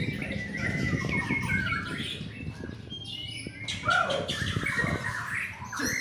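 White-rumped shamas (murai batu) singing in competition: several birds overlapping in varied phrases of whistles, trills and harsher notes, over a low crackling background noise.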